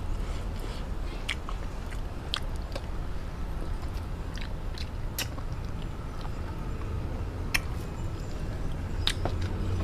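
A person chewing soft food, steamed chicken, with wet mouth clicks and lip smacks every second or two.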